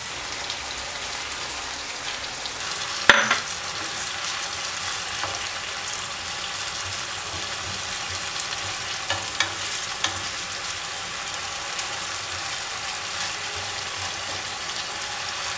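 Marinated chicken pieces sizzling steadily as they shallow-fry in hot oil in a wok, while a spatula turns them. The spatula knocks against the pan a few times, with one sharp clack about three seconds in, the loudest sound, and a few lighter knocks later.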